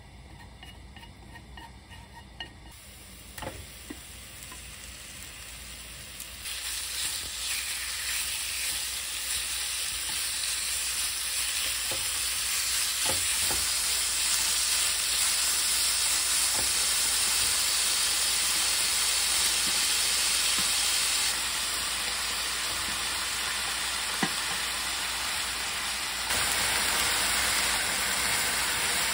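Food sizzling in hot oil in a nonstick frying pan, getting louder over the first few seconds as minced garlic and then sliced beef and vegetables are stir-fried. A few sharp clicks of wooden chopsticks against the pan come through the sizzle.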